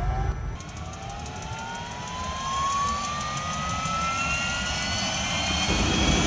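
Aérospatiale SA342M Gazelle's Turbomeca Astazou turboshaft engine spooling up during start, a whine rising steadily in pitch. The rotor brake is on, so this is the turbine accelerating alone before the rotor is engaged.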